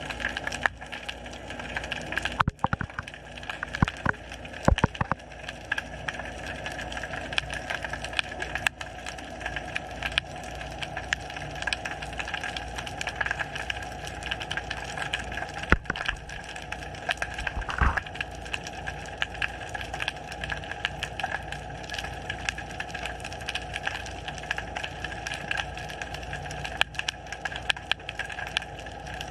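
Underwater ambience heard through a submerged action camera: a steady wash of noise with many sharp clicks and crackles scattered through it, and a few louder cracks.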